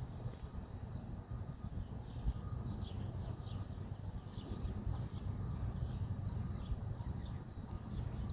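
Small birds chirping in quick, short notes, thickest in the middle and later part, over a steady low rumble.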